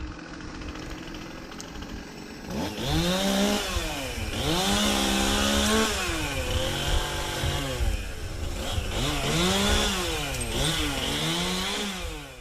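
Chainsaw engine idling, then revved up about two and a half seconds in, its pitch climbing and dropping again and again as it cuts into an oak limb, before cutting off abruptly near the end.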